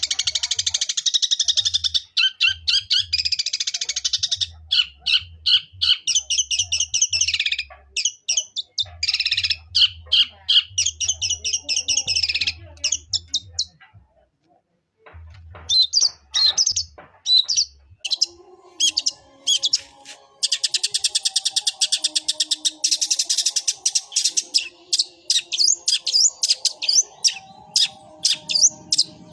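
Long-tailed shrike (cendet) singing rapid runs of high, sparrow-like chirps, with a pause of about a second about halfway through.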